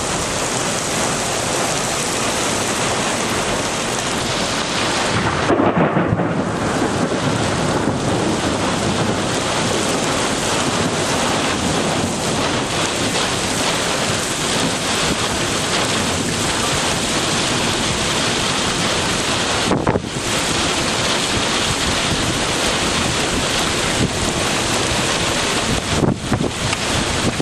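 Heavy rain falling steadily, with a swell of thunder about six seconds in.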